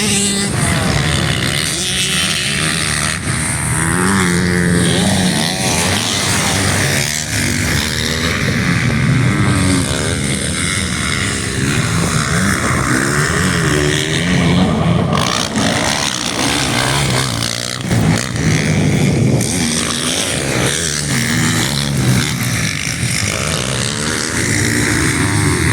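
Yamaha YZ450 motocross bike's single-cylinder engine running after a rebuild. It is blipped and revved over and over, the pitch climbing and dropping back many times between steadier running.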